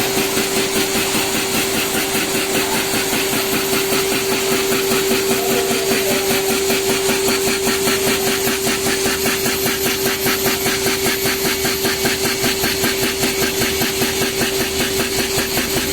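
Two-spindle PCB drilling machine running: a steady whining tone from the spinning spindles under a fast, even tapping of several drill strokes a second.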